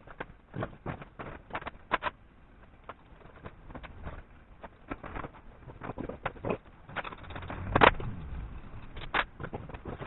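Irregular light clicks and knocks of work on metal parts, with one louder clunk about eight seconds in.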